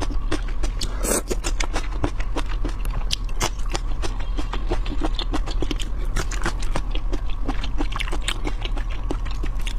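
Close-miked eating of tiger prawns: a fast, irregular run of crisp clicks and crackles from chewing and biting, over a steady low hum.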